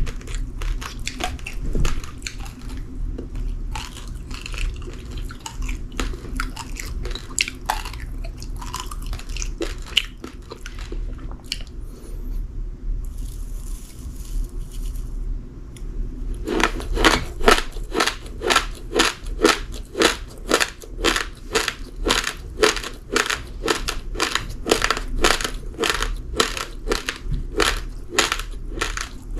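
Uncooked rice grains being chewed, with crisp grainy crunches. The crunches are irregular at first, then about halfway through settle into a steady chewing rhythm of two to three strong crunches a second.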